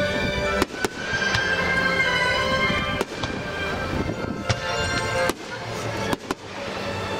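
Aerial fireworks going off in a show: several sharp bangs at irregular intervals, over music.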